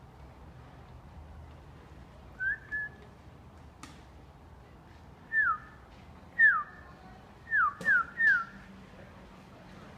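A series of short clear whistles: two brief level notes, then five sliding downward in pitch, the last three in quick succession. Two sharp clicks fall among them.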